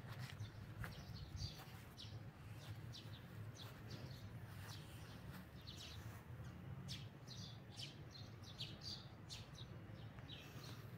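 Faint chirping of small birds: many short, high chirps scattered throughout, over a low, steady background rumble.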